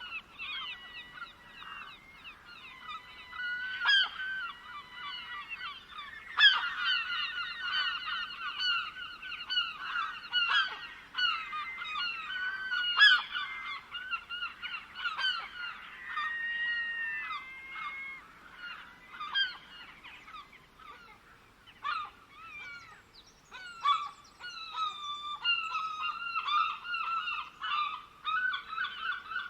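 A flock of birds calling at once: rapid, repeated nasal notes overlapping in a dense chatter. The calling thins out for a few seconds past the middle, then builds again.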